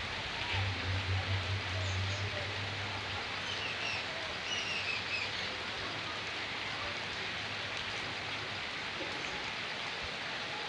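Steady hiss of rain together with running river water, with a few short bird chirps a few seconds in. A low rumble runs underneath during the first few seconds.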